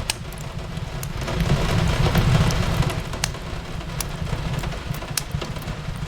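Fireplace crackling, with irregular sharp pops and snaps, over a steady hiss of rain falling on a window and a low rumble.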